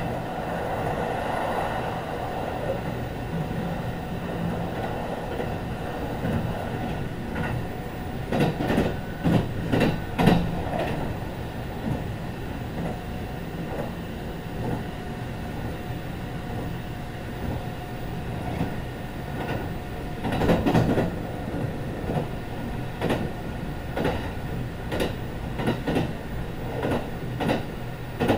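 Running noise inside a Kintetsu 22000 series ACE limited express car, heard from the deck: a continuous rumble of wheels and running gear with a few steady hums at constant speed. Bursts of clattering wheel clicks come about a third of the way in, again past two-thirds, and several times near the end.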